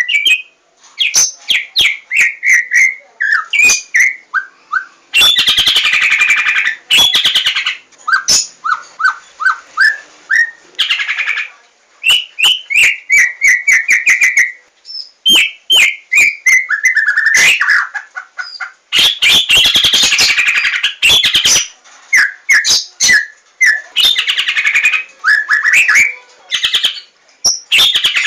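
Javan white-rumped shama (murai batu) singing. Its song is a rapid, varied run of whistled notes and phrases, broken by harsh, rasping stretches and sharp clicks.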